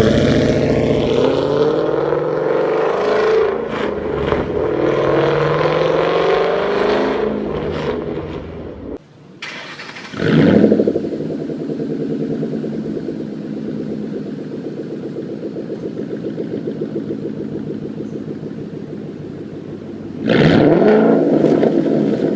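Ford Mustang (2011–2014) exhaust: an engine revving up and down, then another starting with a loud flare and settling into a steady idle, with a sharp rev blip near the end.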